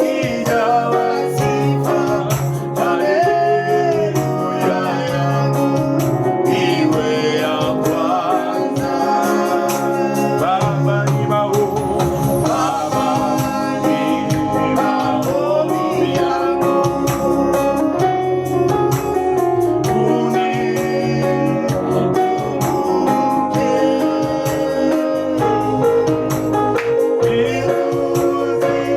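Gospel song with singing over a keyboard organ and a steady beat.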